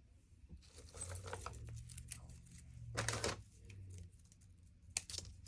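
Hands handling flower-press layers: fabric and felt pads rustling and small clicks as the pieces are set in place. A short, louder burst comes about three seconds in.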